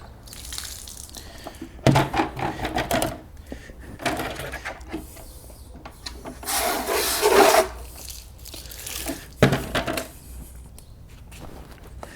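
Scrubbing and rubbing on a car's wet wheels in irregular strokes, with a longer hiss of spray a little past the middle.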